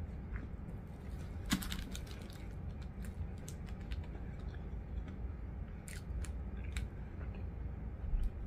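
A person chewing a mouthful of rotisserie chicken sub, with wet mouth clicks and smacks scattered through, the sharpest about one and a half seconds in. A steady low hum runs underneath.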